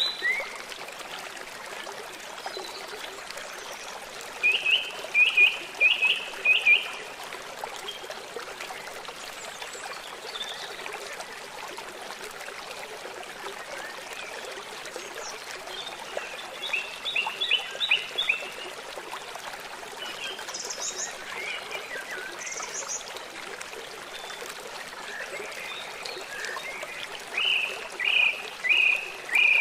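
A stream flowing steadily, with birds calling over it in three short bouts of four or five quick chirps each, and a couple of brief high notes between them.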